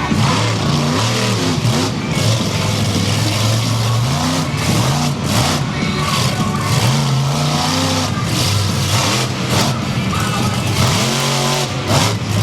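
Monster truck engine running loud and revving up and down again and again, its pitch rising and falling every second or two over a wide roar.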